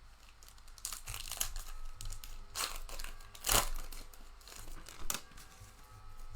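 Plastic wrapper of a trading card pack crinkling and tearing as it is opened, in several short bursts, the loudest about halfway through.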